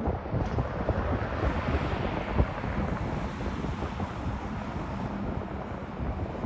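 Wind buffeting the microphone in gusty thumps, over a rushing noise that swells about one and a half seconds in and then eases off.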